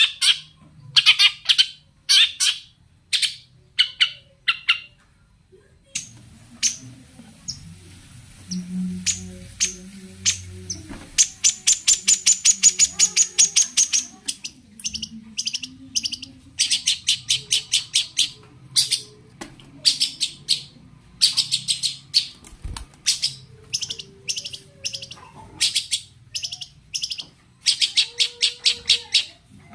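Long-tailed shrike (cendet) singing: loud, harsh chattering notes in quick clusters, with a long rapid run of notes near the middle.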